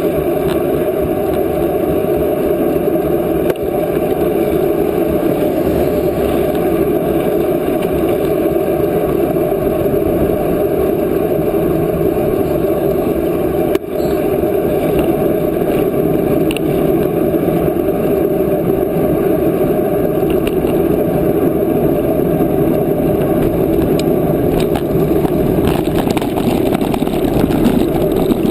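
Steady rush of wind over the microphone while riding a bicycle, with two brief dips about 3.5 and 14 seconds in.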